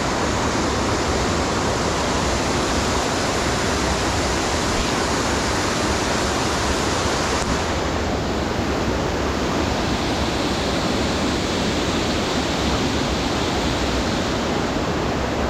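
Waterfall dropping 10 to 15 feet onto rocks: a steady, unbroken rush of falling water, slightly duller in its top end from about halfway through.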